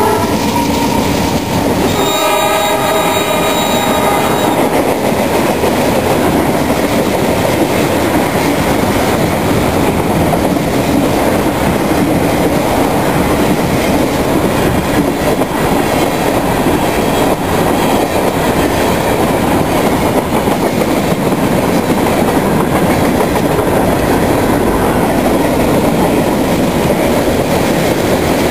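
Norfolk Southern diesel freight train passing close by at a grade crossing. The locomotive's horn sounds briefly and stops about four seconds in. After that comes the steady running noise of the freight cars' wheels rolling along the rail.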